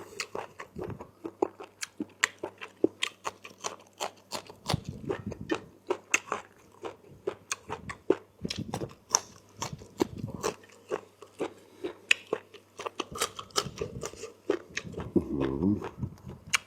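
Close-miked eating of chicken curry with rice: wet chewing, lip smacks and irregular mouth clicks. There is a brief hummed voice sound near the end.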